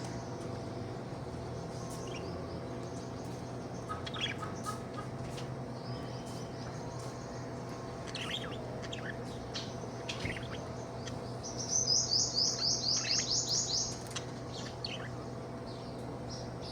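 Budgie chirping in scattered short calls, then a fast run of about a dozen sharp, loud chirps a little past the middle. A steady low hum runs underneath.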